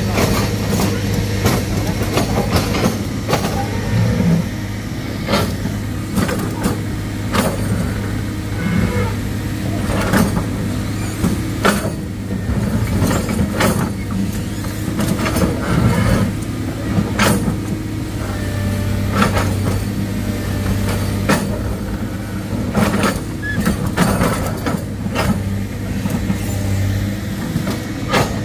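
Heavy diesel machinery running steadily with a low hum, broken by frequent sharp knocks and clanks.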